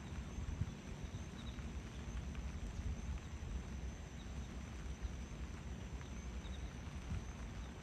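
Low, steady rumble of a distant approaching passenger train, with a faint high insect drone and a few small bird chirps over it.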